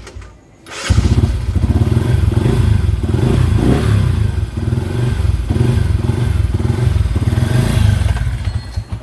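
Bajaj Rouser 135LS single-cylinder engine running through an aftermarket Z1000-style exhaust: it dips almost to nothing just after the start, then is revved up about a second in and held at raised revs with throttle swells, dropping back to a pulsing idle near the end.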